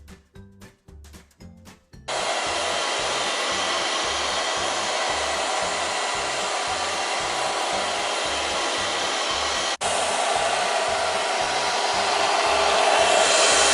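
Monarc Botbot robot vacuum's suction motor running with a loud, steady hiss. It starts abruptly about two seconds in, breaks off for an instant near ten seconds, and grows a little louder near the end. A background music beat runs underneath and is heard alone at the start.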